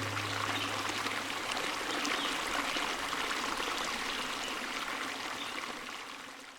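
Stream water running and trickling, with a low held note dying away in the first couple of seconds; the water sound fades out near the end.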